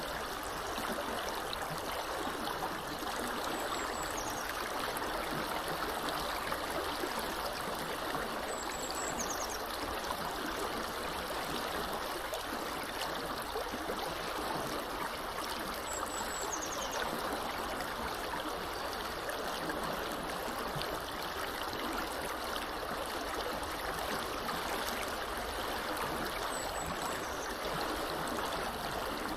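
Small river flowing steadily, an even rushing of water with no breaks. A faint high bird chirp comes three times, several seconds apart.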